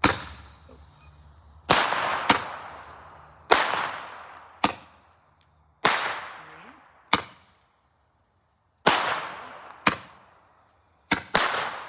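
Firework going off in a run of about eleven sharp bangs, irregularly spaced roughly a second apart. Each bang trails off in a fading hiss.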